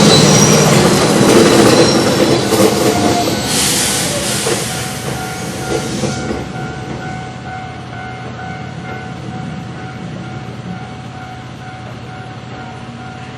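Keihan electric train passing over the level crossing, its wheels clattering on the rails. The train's noise fades over the first six seconds, and a steady ringing tone carries on beneath it.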